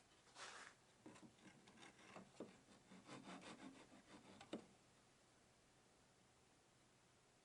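Faint rubbing and scraping on wood, with a few light ticks, for about four seconds, then near silence.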